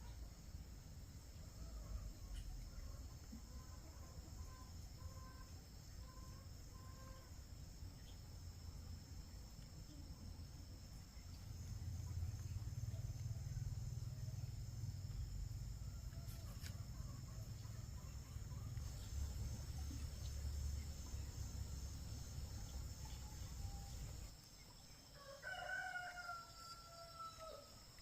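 A rooster crows once near the end, over a steady high insect drone. A low rumble fills the middle of the stretch.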